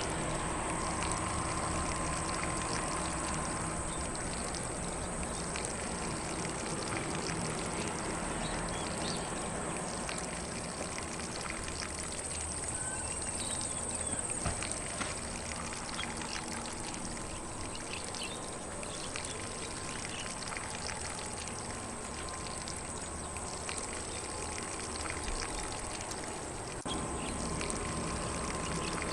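Lawn sprinkler spraying water in a steady hiss, with faint bird chirps now and then.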